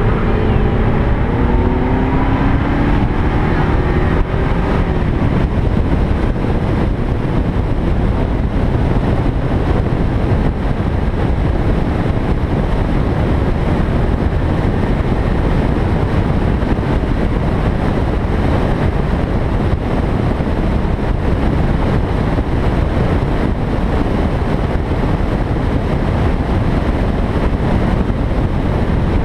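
BMW 320 E21 engine pulling hard under acceleration, its pitch rising over the first few seconds, then a steady dense mix of engine, wind and road noise as the car runs at speed.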